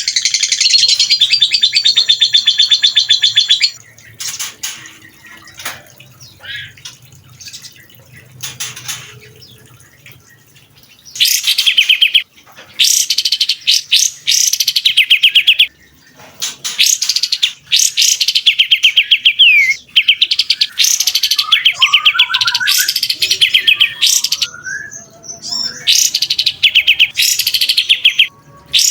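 Songbird singing loud, very rapid rattling trills high in pitch, the 'tembakan' style of song used to train competition birds. A long trill opens, followed by a quieter stretch of scattered chirps, then from about eleven seconds in a run of trills a second or two long with short gaps between them.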